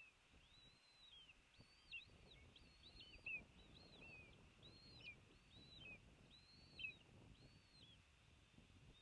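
Faint bird calls: a steady run of thin, high, arched notes, each often followed by a short falling note, one or two a second. Under them is a low rumble with a few soft bumps.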